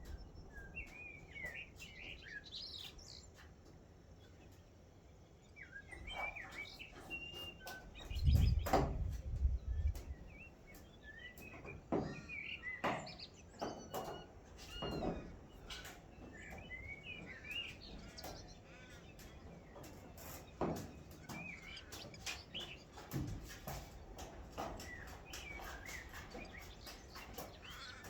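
Several wild birds chirping and calling in short, overlapping phrases, with scattered sharp clicks. A loud low rumble comes about eight to ten seconds in.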